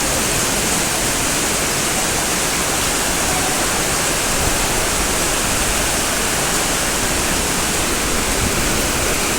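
Floodwater rushing: a loud, steady wash of noise without breaks.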